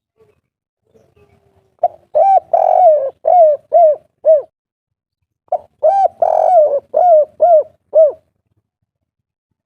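Spotted dove (tekukur/derkuku) singing its 'kuk 3' song type, two cooing phrases a few seconds apart. Each phrase is a short note, a longer coo, then three quick short coos.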